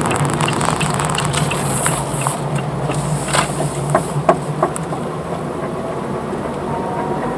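Car on the move with a steady low drone from a failing front hub bearing. A quick regular ticking is heard at first, and a few sharp clicks come around the middle.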